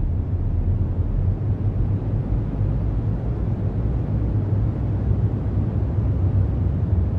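Cyclone-strength wind: a steady, heavy low rumble with no breaks or gusts standing out.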